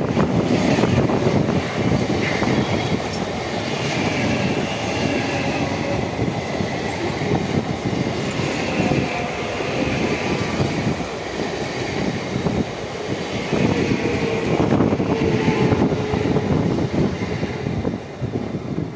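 Mumbai suburban ICF electric local train passing close by, its wheels clattering rhythmically over the rail with a heavy rumble and a thin high-pitched wheel squeal. The last coach goes by near the end and the sound eases slightly.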